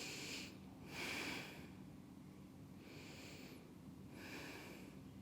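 A person breathing slowly and quietly, with five faint breaths heard at intervals of about a second.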